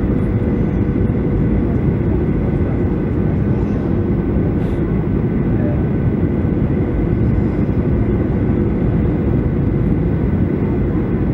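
Steady cabin noise of a Boeing 737-700 in flight, heard from a forward window seat: a constant low rumble of CFM56 engine and airflow noise with faint steady tones above it, unchanging throughout.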